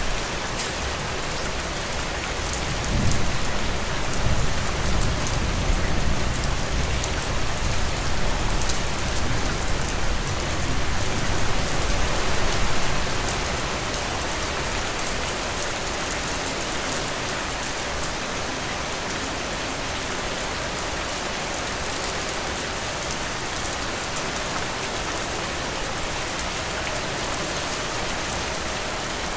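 Heavy rain falling steadily, an even hiss. About three seconds in a low rumble rises under it and lasts about ten seconds before fading back to the rain alone.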